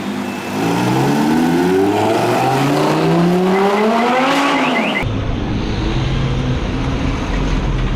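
Supercar engine accelerating hard, its pitch climbing steadily for about four seconds. It then cuts off suddenly and gives way to a deeper, steadier engine rumble at low revs.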